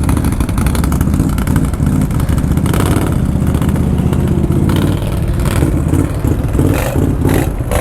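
ATV engine revving hard under load, its pitch rising and falling as the rider works the throttle.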